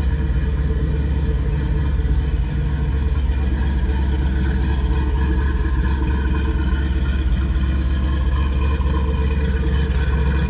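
Ford 302 V8 crate engine with headers into a single exhaust, idling steadily.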